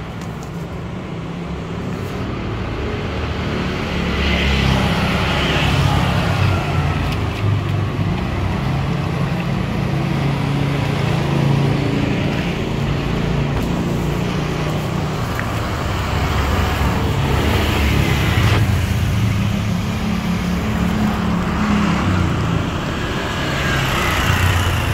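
Road traffic: engines of passing vehicles running, a continuous low hum that grows louder about four seconds in and stays loud.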